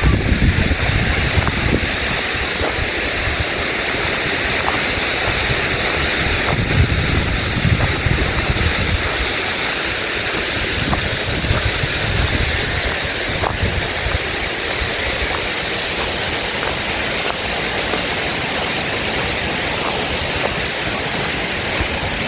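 Steady rushing noise, like running water or wind, with wind buffeting the microphone in a low rumble for about the first nine seconds.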